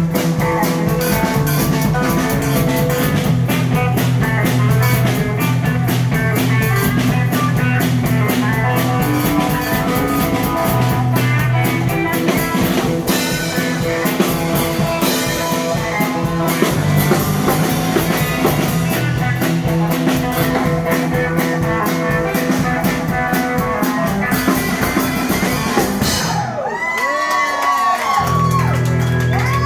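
Live blues band playing an instrumental passage, with electric guitar over a drum kit and bass. Near the end the bass and drums drop out for a moment while the guitar swoops up and down in pitch, then the full band comes back in.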